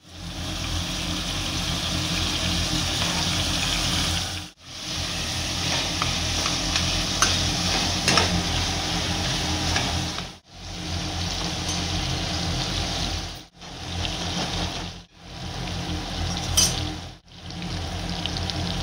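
Chopped onions and tomatoes sizzling in hot oil in a steel kadhai, stirred with a spatula that clicks and scrapes on the pan now and then. The sizzle cuts out suddenly for a moment several times.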